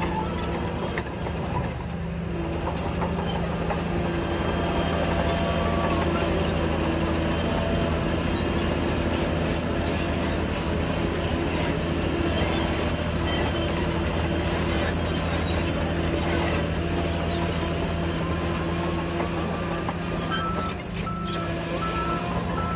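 Diesel engines of heavy earthmoving machines running steadily under load, with a vehicle's reversing alarm beeping near the end.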